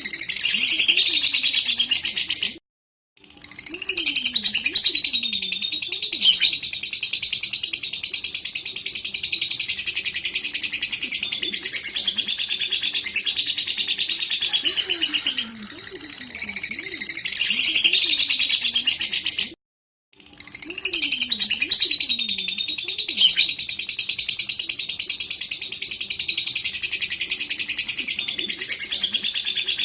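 Lovebird chattering in long, rapid, unbroken runs of shrill, buzzy trilling, a recording used as a lure to excite lovebirds in breeding condition. The chatter drops out abruptly for a moment twice, about three seconds in and again near twenty seconds, with fainter lower gliding calls underneath.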